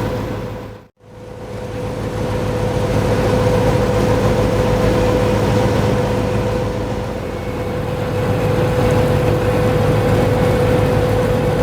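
Steady engine drone with a constant humming tone over a low rumble. It cuts out briefly about a second in and fades back up.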